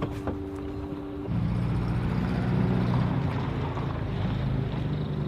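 An engine running steadily nearby, getting suddenly louder a little over a second in and then holding a low, even drone.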